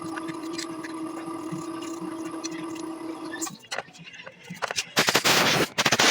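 A steady machine hum with a pitched whine cuts off about three and a half seconds in. About five seconds in, loud hissing blasts from a pressurized nozzle begin, switching on and off, while the scooter's carburettor is being cleaned.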